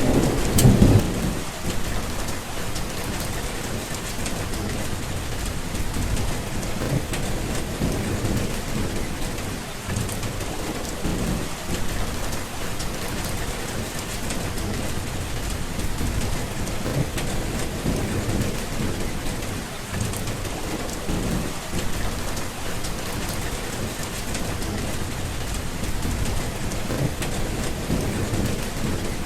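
Steady rain falling, with low rolling thunder rumbling. The thunder is loudest right at the start, and further rumbles swell and fade several times.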